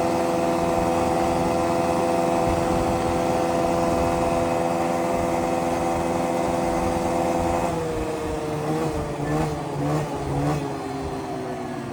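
Yamaha Grizzly 125 ATV's small single-cylinder four-stroke engine running at a steady speed under held throttle. About eight seconds in it eases off, its pitch dropping with a few brief throttle blips as it slows.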